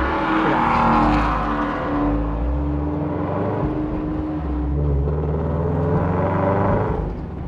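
Subaru BRZ's flat-four engine with a full catless exhaust and header, heard from inside the cabin, pulling under acceleration with its pitch stepping as it goes.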